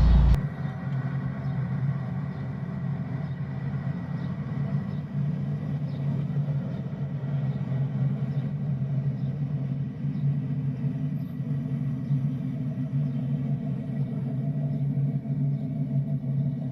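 A car engine running steadily, an even low rumble that does not rise or fall.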